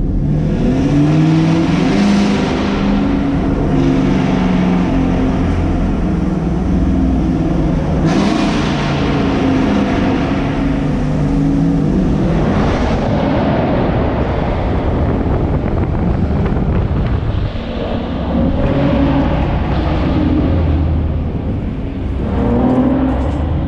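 Chevrolet Camaro V8 exhaust revving up hard in a tunnel, its note rising in pitch four times with lulls between.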